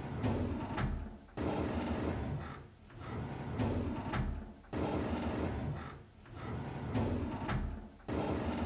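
A drawer sliding open again and again, each slide a noisy run lasting one to two seconds, some starting suddenly and others building up.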